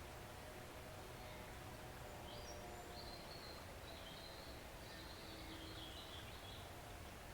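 Small forest stream flowing steadily, faint and even. Birds chirp high and faint for a few seconds in the middle.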